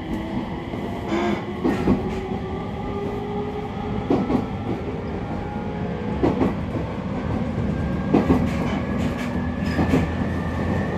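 Running sound inside a JR East 701-series electric train motor car (KuMoHa 701-1506): a steady rumble of wheels on track, under a faint motor whine that rises slowly in pitch. The wheels clack over rail joints about half a dozen times, at uneven intervals.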